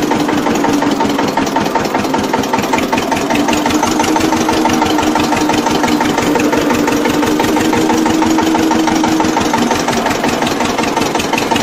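Homemade mini tractor's engine running steadily at idle, with a fast, even chugging.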